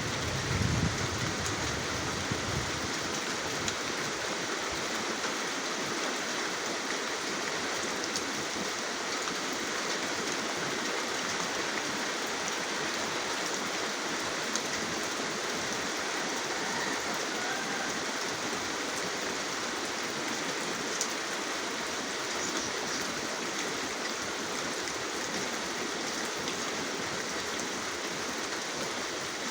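Steady rain falling, a dense even hiss, with a brief low rumble about a second in.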